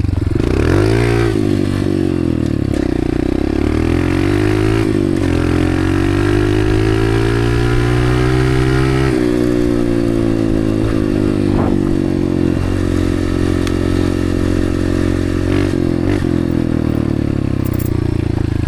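Dirt bike engine running under way with the throttle varied: its pitch climbs steadily, drops sharply about nine seconds in as the throttle is rolled off or a gear changes, then holds fairly steady.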